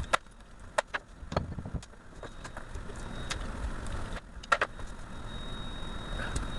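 Irregular sharp metallic clicks and clinks of hand tools working copper windings out of the end of a car starter motor armature.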